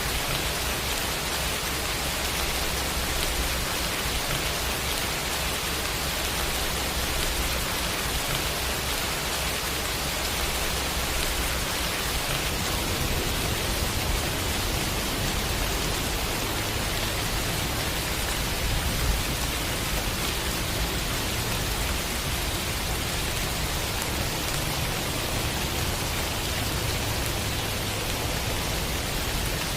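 Steady heavy rain, an even hiss, with a low rumble underneath that shifts in pitch about halfway through. It is blended with a white-noise bed.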